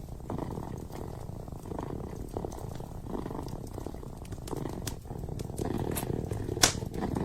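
Kitten purring steadily, the low purr swelling and fading with each breath. Fire crackles from a fireplace give scattered small snaps, with one sharp pop near the end.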